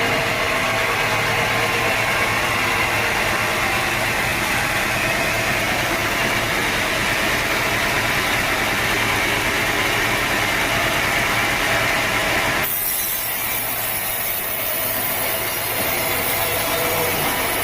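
Sawmill saw running through a teak log: steady, loud machinery noise. About thirteen seconds in, the sound changes suddenly to a thinner, hissier tone.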